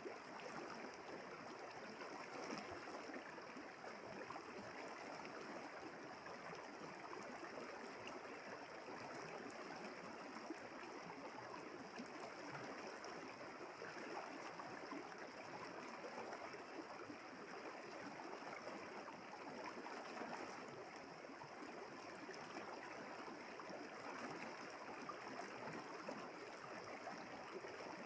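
Village river water flowing steadily with a gentle trickling rush.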